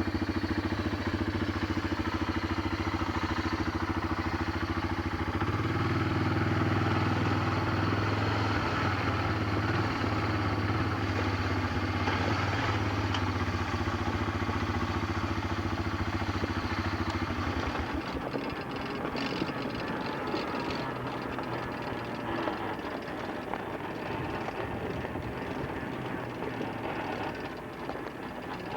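Vehicle engine running steadily with road noise, heard from inside the vehicle. About two-thirds of the way through, the engine hum drops away, leaving a rushing noise and light crackling.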